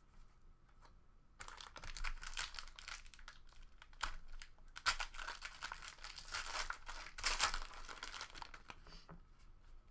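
A trading card pack wrapper being torn open and crinkled, a dense crackle starting about a second and a half in and lasting about six seconds.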